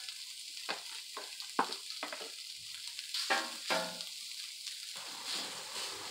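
Crumbled sausage sizzling on a hot steel flat-top griddle, with a metal spatula scraping and pushing the meat across the plate in a string of short strokes. The steady frying hiss runs under the scrapes.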